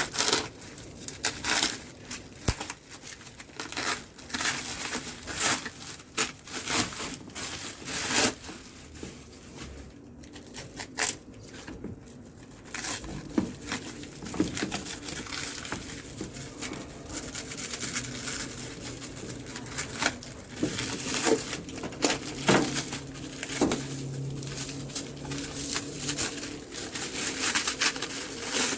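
Irregular clicks, knocks and plastic rustling from hands working on a washing machine's control panel during a repair.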